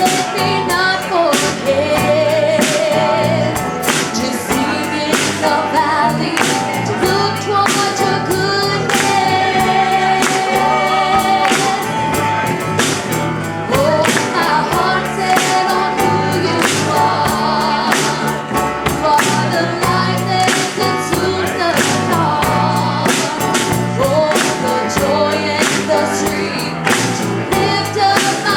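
Gospel music: voices singing over a band with a steady drum beat.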